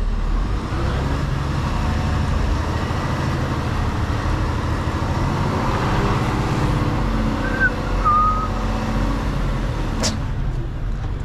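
Mercedes-Benz Actros truck's diesel engine running steadily while the truck reverses slowly. Two short high chirps come about seven and a half seconds in.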